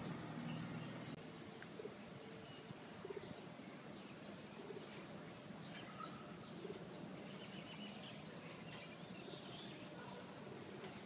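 Faint bird calls: many short, high chirps, with pigeons cooing, over a low steady hum.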